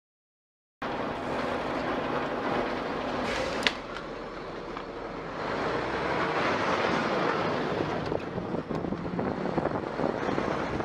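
Steady road and engine rumble of a moving vehicle, starting abruptly after a short moment of silence, with one short sharp knock a few seconds in.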